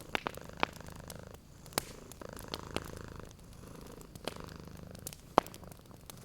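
Domestic cat purring in stretches that come and go with its breathing, over a wood fire crackling with sharp pops; the loudest pop comes about five seconds in.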